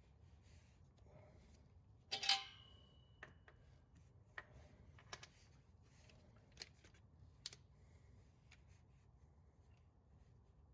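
Metal hand tools being handled: one clinking clank with a brief ring about two seconds in, then a few sharp, light clicks at uneven intervals.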